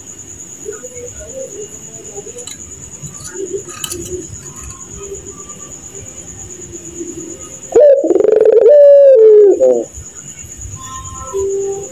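A puter pelung (domestic Barbary dove) gives one loud laughing call about two seconds long, starting about eight seconds in; its pitch wavers and then falls away. A steady high-pitched whine runs underneath.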